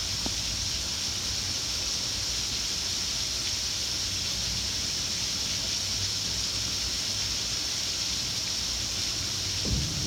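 Heavy rain pouring steadily, splashing onto a flooded porch deck in an even hiss. A short low rumble comes near the end.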